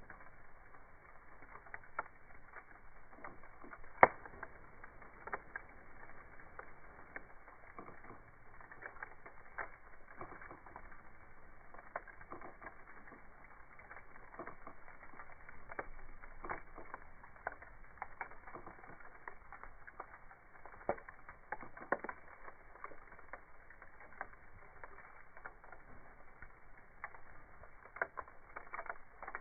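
Wood campfire crackling, with irregular sharp pops and snaps; the loudest pop comes about four seconds in.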